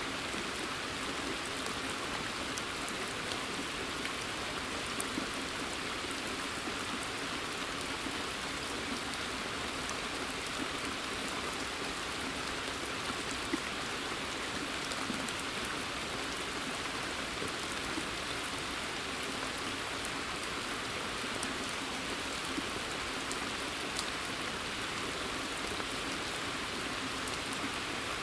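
Steady rain falling in woodland, pattering on leaves and a pond's surface, with scattered individual drop ticks.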